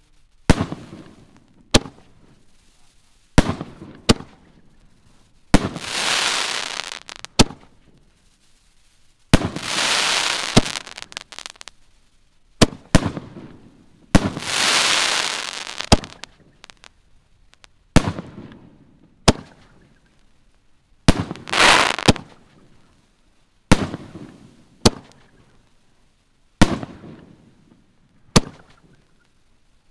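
Six-inch consumer canister shells firing in sequence: a string of sharp, hard-hitting bangs every second or two as shells launch and break. Several bangs are followed by a hiss lasting a second or two.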